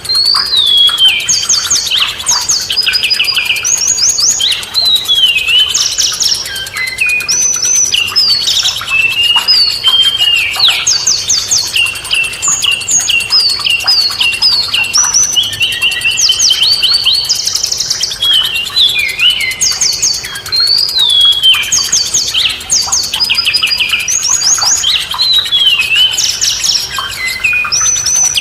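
Several songbirds singing and chirping without pause, overlapping: quick runs of sharp, high notes and short falling whistles.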